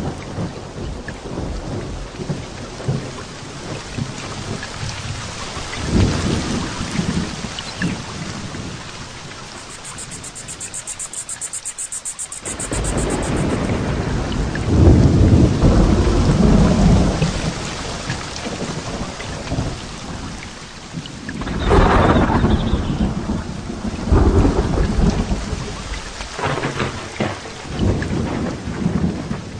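Heavy rain falling steadily through a thunderstorm, with repeated rolls of thunder. The loudest rumble swells about halfway through, and another strong one comes about two-thirds of the way in.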